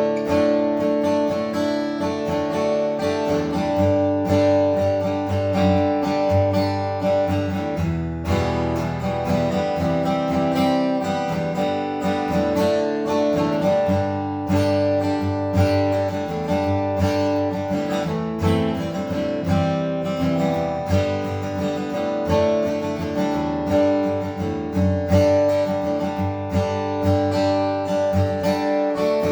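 Seagull SWS mahogany acoustic guitar being strummed in chords, with a change of chord about eight seconds in.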